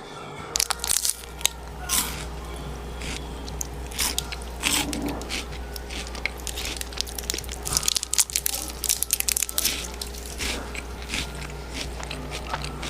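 Close-miked eating: a person biting and chewing crunchy food, with many sharp crackles that are densest about eight seconds in, over a steady low hum.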